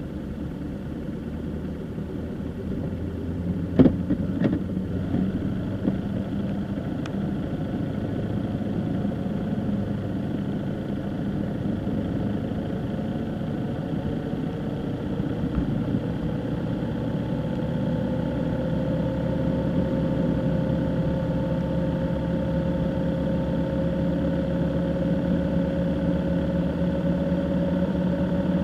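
Car engine and road noise while driving, the engine note rising slowly through the second half. A few sharp knocks about four seconds in.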